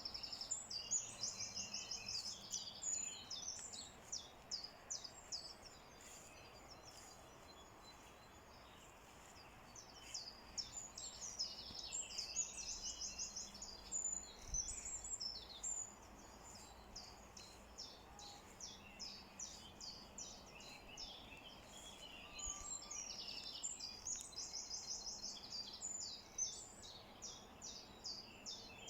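Songbirds singing: rapid high chirps and trills in bursts, with quieter stretches between, over a faint steady background hiss.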